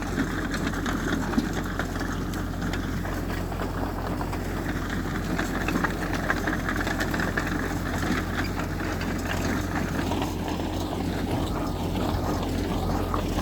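Heavy earthmoving machinery's engine running steadily, with many light rattles and clicks over it.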